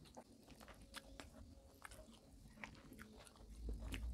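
Close-up chewing of food while eating by hand, with scattered small wet mouth clicks and smacks; a low rumble comes in near the end.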